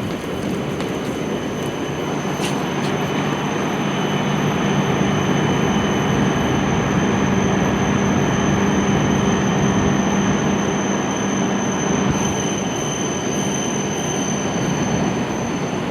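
E7 series Shinkansen train running slowly into the platform and braking, a steady rumble of wheels and running gear with a steady high whine, growing a little louder toward the middle and easing off near the end.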